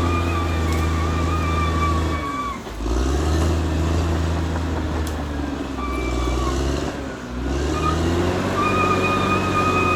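Caterpillar D6R XL bulldozer's diesel engine running with a high whine over the low engine note. Twice, about two and a half seconds in and again around seven seconds, the engine note sags and drops in pitch, then picks back up.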